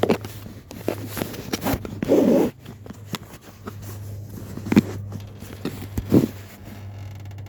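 Handling noises: a run of clicks and short scrapes, with a longer rasping, zipper-like burst about two seconds in and two sharper knocks later, over a steady low hum.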